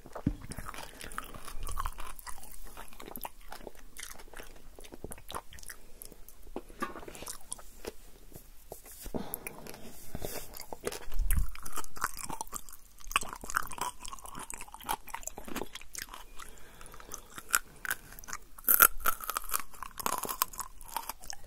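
Close-miked chewing and crunching of food by a person, with a dense run of small irregular mouth clicks that grows a little louder about halfway through and again near the end.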